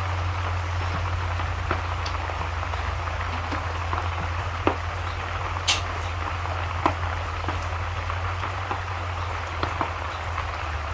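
Steady rain with scattered sharp crackles and pops, over a constant low rumble.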